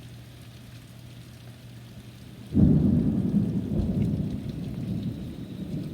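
Steady rain, then about two and a half seconds in a sudden, very loud close thunderclap that rumbles on and slowly fades.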